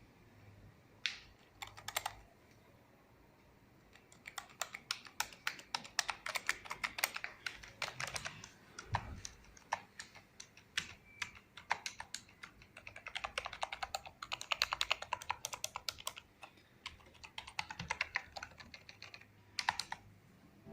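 Typing on a Logitech K120 membrane keyboard. A few single key presses come first, then fast runs of key clicks with short pauses between them.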